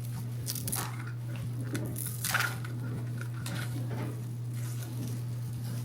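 Plastic crinkling and small clicks from fitting batteries into the battery box of a battery-operated Christmas decoration, over a steady low hum.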